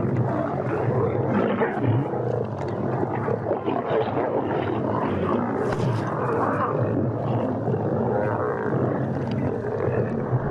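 A pride of lions growling and snarling over a zebra carcass as they feed, jostling and fighting for position, with a continuous overlapping rumble from many animals at once.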